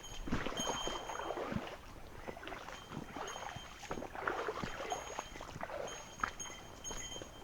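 Water sloshing and splashing in irregular bursts, typical of steps wading through a shallow mountain stream.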